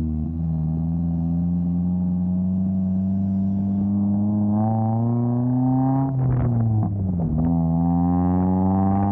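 A 2000 Honda Civic's D-series four-cylinder engine pulling under acceleration, its pitch climbing slowly, then falling briefly at a gear change about six seconds in before climbing again.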